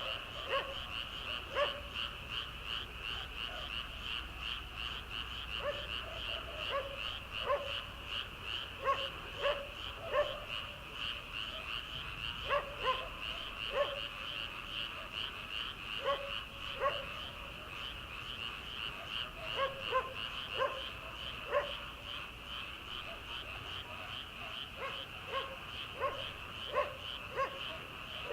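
Chorus of many paddy-field frogs: a dense, continuous high trill, with shorter, lower calls standing out again and again in small clusters.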